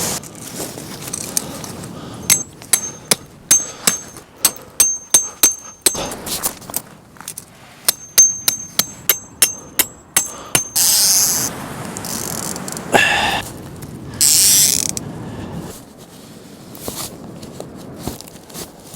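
A mechanism clicking in two runs of sharp, ratchet-like metallic clicks, about two a second, each with a faint high ring. Near the middle, a couple of short rushing noises follow.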